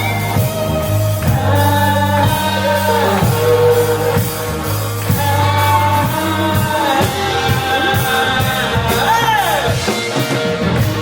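Rock band playing a song: a singer holds long, wavering notes over drums, bass guitar and electric guitar.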